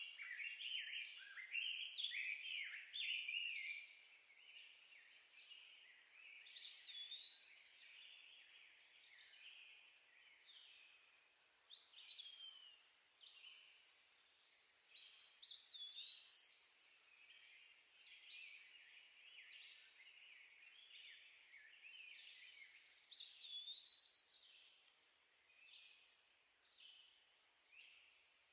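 Woodland birdsong: several birds singing in short, overlapping phrases, some with high rising runs of notes. It is busiest in the first few seconds.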